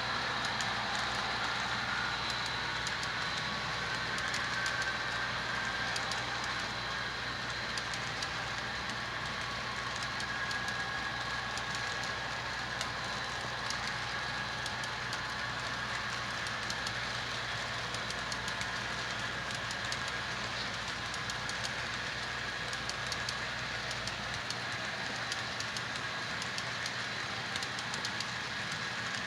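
HO-scale model train running on layout track: a steady rolling rush with many small irregular clicks from the wheels over the rail joints, and a faint steady high whine.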